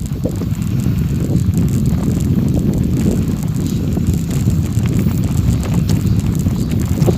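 Wind buffeting the microphone over a steady rumble, as from riding along a gravel forest road, with faint scattered ticks.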